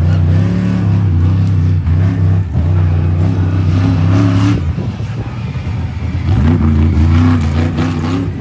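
Big engine of a monster truck running loud, revved up twice: the pitch climbs shortly after the start and again near the end.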